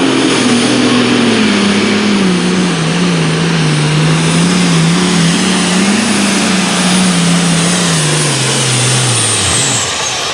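Super stock pulling tractor's engine under full power, its heavy note sagging and wavering under load, with a high turbo whistle over it. Near the end the engine drops in pitch and winds down as the throttle comes off, and the whistle falls away with it.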